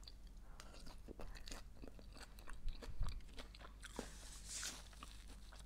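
A person chewing a mouthful of arugula salad, with many small crisp clicks of the leaves being bitten down, a little louder about three seconds in.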